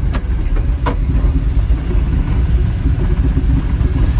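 Kei truck driving along, a steady low engine and road rumble, with two light clicks within the first second.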